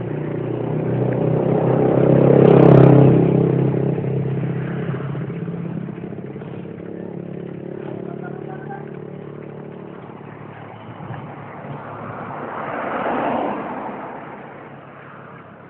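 A motor vehicle's engine passing close by, growing louder to a peak about three seconds in and then fading away; a second vehicle swells past and fades near the end.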